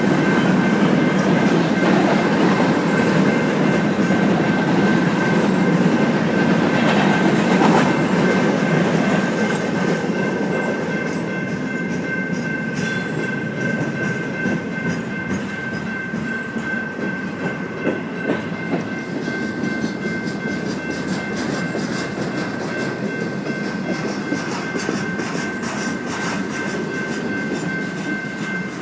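Freight train cars rolling past, wheels clattering over rail joints, with a thin steady high ringing held throughout. The rumble is loudest for the first nine seconds or so, then eases a little, while the clicks grow more distinct.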